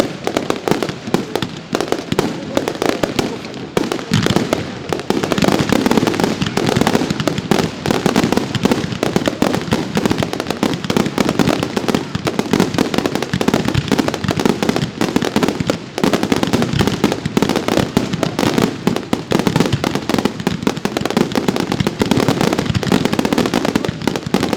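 Professional fireworks display firing a dense, continuous barrage of bangs and crackling, the reports coming too fast to separate, with a brief lull about sixteen seconds in.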